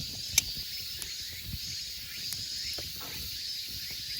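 Wood campfire crackling, with scattered sharp pops, the loudest about half a second in, over a steady high-pitched hiss.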